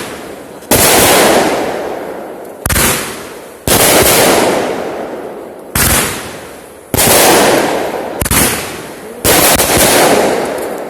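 Fireworks going off: about seven loud, sudden salvos in quick succession, each fading away over a second or two.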